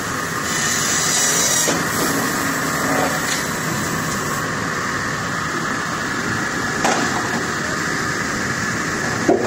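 Cut-to-length cutting machine running steadily, with a few sharp clicks or knocks, the loudest near the end.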